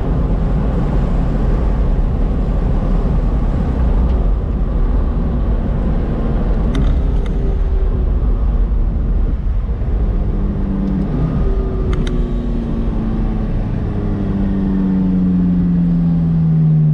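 McLaren 570S's twin-turbo V8 and road rumble heard from inside the cabin as the car slows down, the engine note falling gradually near the end. A couple of short clicks come partway through.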